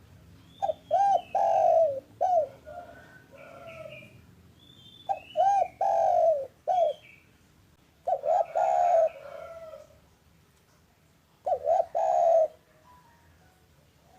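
Spotted dove (derkuku) cooing: four phrases of several rounded, low coos, each phrase a couple of seconds long and a few seconds apart.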